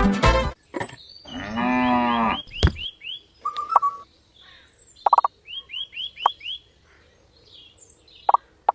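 A drawn-out, low animal call lasting about a second, then repeated short falling chirps and several brief plops, like a nature sound-effect bed.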